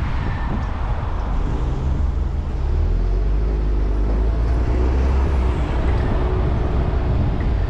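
Car engine running at low speed with a steady low hum, picked up with little wind noise. Its pitch shifts slightly about five seconds in as the car moves off.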